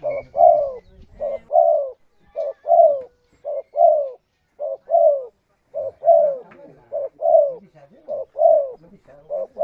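Spotted dove (tekukur) cooing: low, arched coo notes in pairs, a short note then a longer one, repeated about once a second, nine times.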